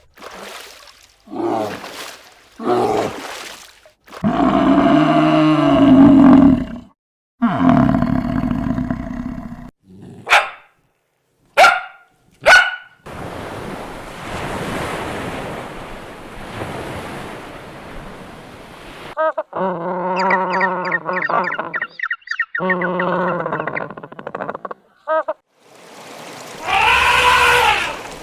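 A run of different animal calls, one short clip after another, some with a repeated pitched cry, broken by a few sharp clicks and a stretch of steady noise in the middle.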